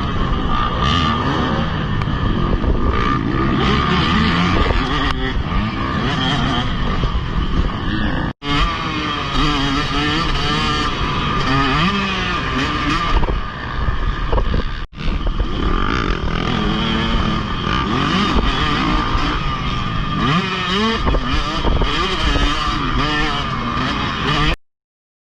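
Motocross dirt bike engine revving up and down repeatedly as it runs on the track, with two brief gaps where the sound drops out, before it cuts off suddenly near the end.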